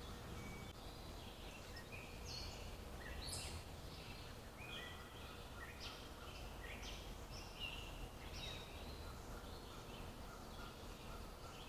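Wild birds chirping and calling in quick short notes, several overlapping, over a faint steady low rumble of outdoor background noise.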